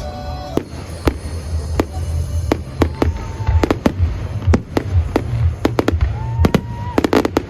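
Fireworks exploding: a series of sharp bangs, some in quick clusters, with two whistles that rise and then hold steady, from whistling fireworks going up.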